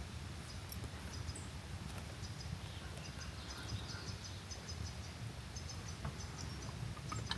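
Small animal chirping outdoors: short, high chirps in quick groups repeating throughout, over a steady low rumble.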